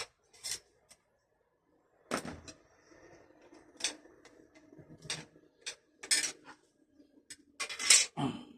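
Irregular metallic clinks and clanks of hand tools and metal parts being handled and set down, about nine in all, the loudest near the end.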